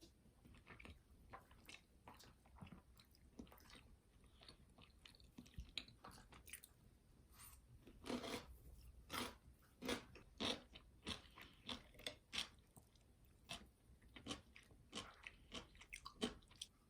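A person chewing and biting crunchy food close to the microphone: a run of short crisp crunches, sparse at first, then closer together and louder from about halfway.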